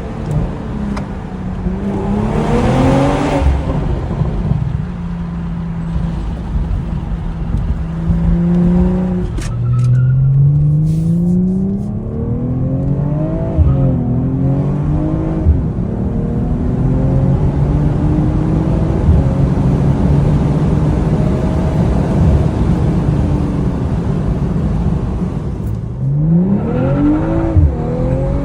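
BMW M440i's B58 turbocharged inline-six under hard acceleration, the engine note climbing in pitch through the gears with short drops at each upshift. It holds a steadier note for several seconds in the middle, then climbs again near the end.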